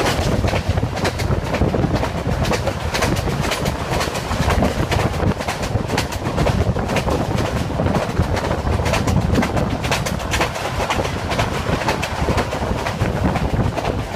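Broad-gauge passenger train running along the track, heard from an open window of a carriage: a steady loud rumble of the wheels with constant clicks and rattles over the rails.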